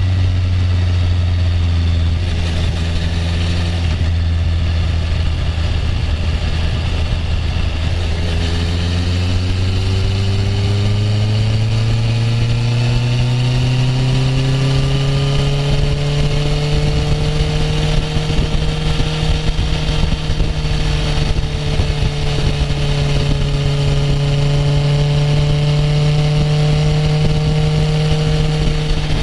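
Honda CB650F motorcycle's inline-four engine running at steady revs, then climbing smoothly in pitch over several seconds as the bike accelerates, and holding a higher steady note to the end with a brief slight dip.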